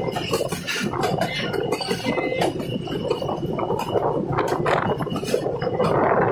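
Passenger train coach running along the track at speed: a steady rumble and rush with many small clicks and rattles from the wheels and coach, and a thin high whine through the first few seconds. The rushing noise grows fuller near the end.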